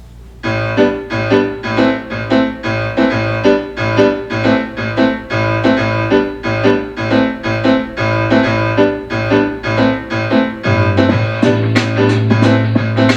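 Music played back through car-audio speakers under test: a piano or keyboard piece starting about half a second in, with chords struck about twice a second and a bass line joining near the end.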